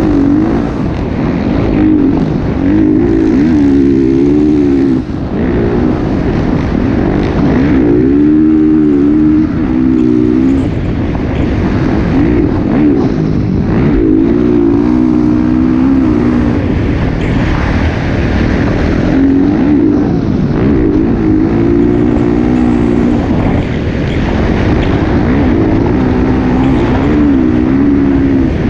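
Motocross dirt bike engines running loud and close, their pitch rising and falling over and over as the throttle opens and closes.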